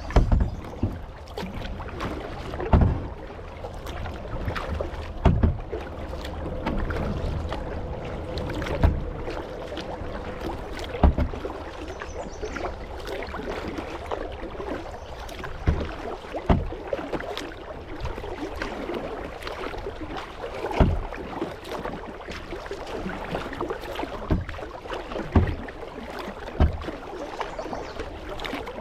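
Kayak paddling: the paddle blade dips and splashes into the water with a low thump every two to three seconds, over a steady wash of moving water.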